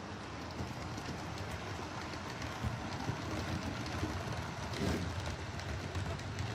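OO gauge model locomotive running along the layout's track: a steady rumble with light clicking from the wheels over the rail joints, growing a little louder as it goes.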